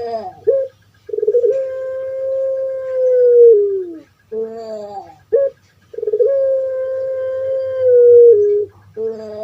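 Puter pelung dove (Streptopelia risoria) cooing: twice a short broken opening note followed by a long drawn-out coo held for about three seconds that drops in pitch at its end, and a third call begins near the end.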